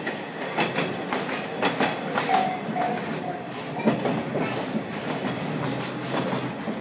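Ride sound inside a JNR Series 50 passenger coach, recorded with the window slightly open: wheels clicking over rail joints over a steady low rumble, with a brief high wheel squeal about two seconds in.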